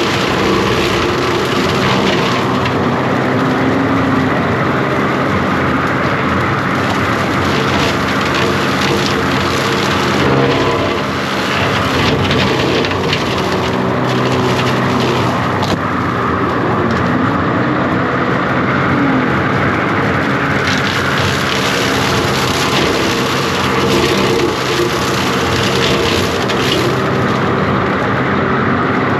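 The diesel engine of a John Deere 333G compact track loader running hard, its pitch dipping and recovering several times as it lugs under load while a hydraulic cutting attachment works through brush. Spells of crackling and snapping of wood and branches come and go.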